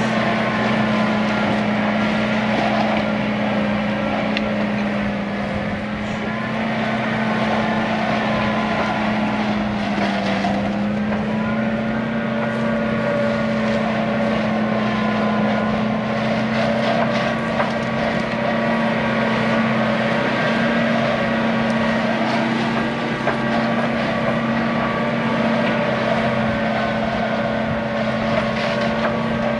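Diesel engine of a John Deere 120 excavator running steadily under load while it travels along the ditch pulling drain tile off the spool. Its pitch dips briefly about ten seconds in, then settles back.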